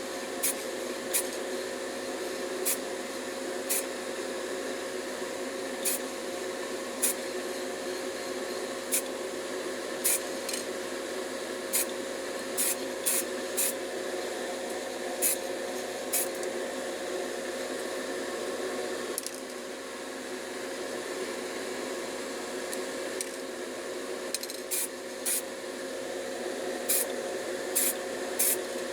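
Paint being sprayed in many quick, short spurts, irregularly about one a second, over a steady mechanical hum.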